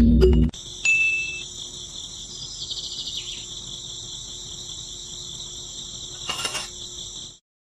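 Steady high-pitched chirring of crickets or other insects, which cuts off suddenly near the end.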